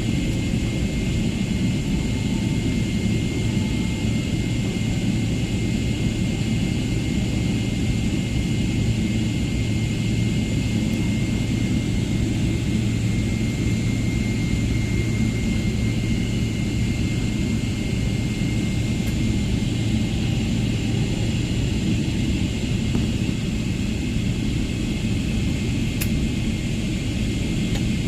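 Steady airliner cabin noise: a low, even rumble with a thin high whine held over it, the hum of the aircraft's air systems while it sits with passengers aboard.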